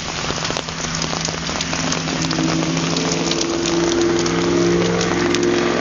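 Heavy rain pouring down, a dense steady hiss of drops. A low steady hum comes in about a second in and grows louder toward the end.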